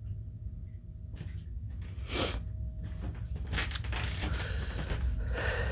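Crunching and rustling handling noise close to the microphone, with a steady low rubbing rumble and several noisy rustles, the loudest about two seconds in.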